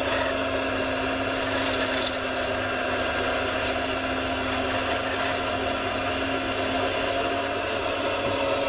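Radio-controlled scale model vehicle running with a steady motor hum and whine, with a faint tick about two seconds in.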